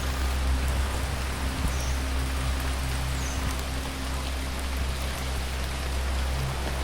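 Steady rain, an even hiss of falling drops, over a constant low hum.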